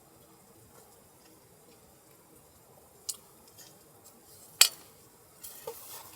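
Small handling sounds at close range: a faint click about three seconds in, a single sharp, loud click a second and a half later, then light rustling with small clicks near the end.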